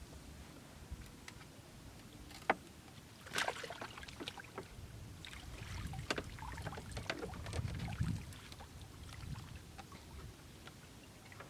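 Irregular splashing and knocking in water, with one sharp knock about two and a half seconds in and busier splashing through the middle.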